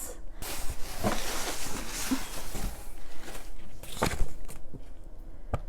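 Rustling and crinkling of box packaging and paper as it is unpacked by hand, with a few light knocks and clicks in the last two seconds.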